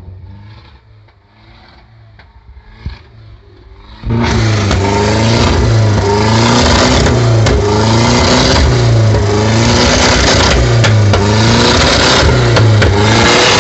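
A faint low hum, then about four seconds in the Nissan K24 engine suddenly comes in loud, revved up and down over and over in a steady rhythm, a little faster than once a second, through a loud exhaust.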